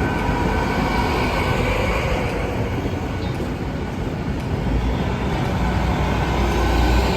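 A train running past at a level crossing, a steady rumble with rail noise.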